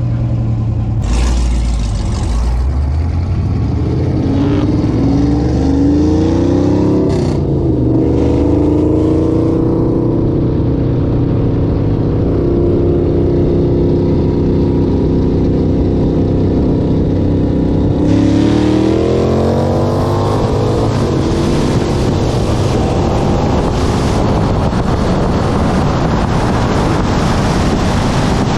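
Car engines pulling hard in a street race, rising in pitch with a gear change about seven seconds in. They hold a steady high pitch for several seconds, then climb again after about eighteen seconds under rising wind and road noise.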